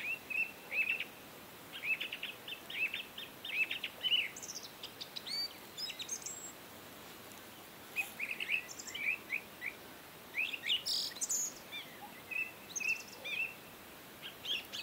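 Small birds chirping: rapid runs of short, high chirps and a few higher sweeping notes, coming in bursts with brief pauses between them.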